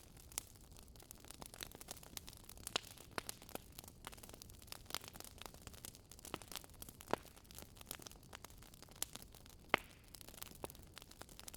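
Wood fire crackling, with irregular sharp pops and snaps over a soft hiss. Two louder pops come about 7 s and 10 s in.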